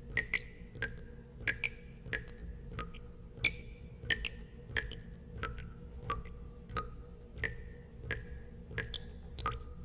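Water drops falling into water, each a sharp plink with a short ringing tone, at an uneven pace of about two a second and varying in pitch, over a steady low hum.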